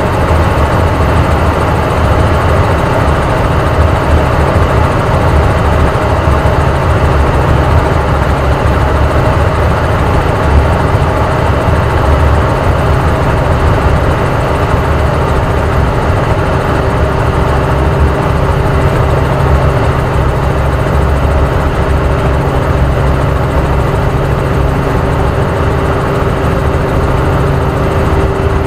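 Helicopter in flight: loud, steady rotor and engine noise with a low throb and a constant hum, heard from inside the cabin. A steady tone in the hum grows stronger near the end.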